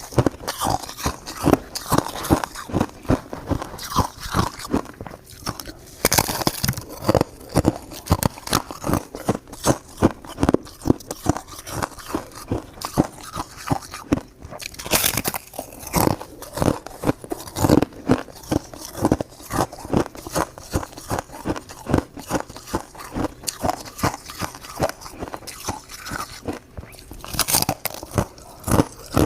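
Crystal shaved ice being chewed close to the microphone: a steady run of crisp, icy crunches, a few to the second, with a few louder bites along the way.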